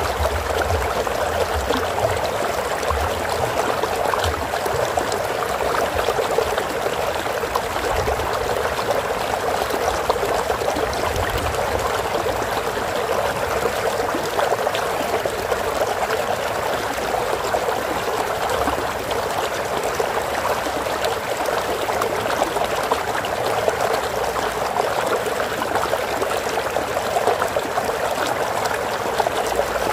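Flowing stream water with a steady rush and trickle over rocks.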